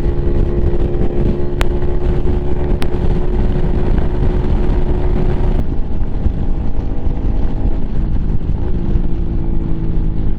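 Lifan KPM 200 motorcycle engine running at a steady road speed with an aftermarket exhaust, heard over wind rush from the rider's helmet microphone. Two sharp clicks come in the first few seconds, and the hiss drops off suddenly about halfway through.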